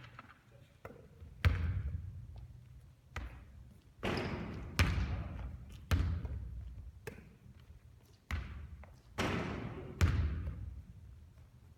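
Basketball shots and bounces on a hard court: a series of sharp thuds and bangs every second or so, some followed by a longer echoing rush of noise.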